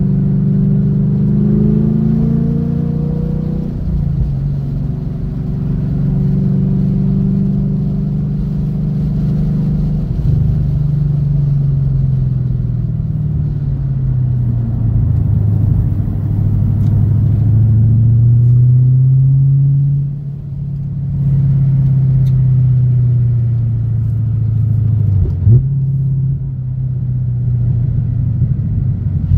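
2016 Chevrolet Camaro SS's 6.2-litre V8, breathing through Stainless Works 1 7/8-inch headers and a full aftermarket exhaust, heard from inside the cabin. It runs at low revs under light throttle, its note rising and falling gently. The sound dips briefly about twenty seconds in as the throttle lifts, and there is a short knock about 25 seconds in.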